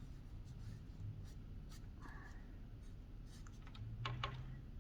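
Faint scratching of a pen drawing on paper in short, irregular strokes.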